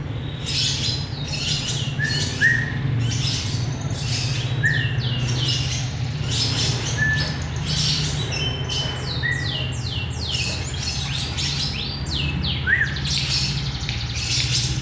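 Lovebird chattering: quick, continuous runs of shrill squeaks and chirps, with a short whistled note now and then, over a steady low hum.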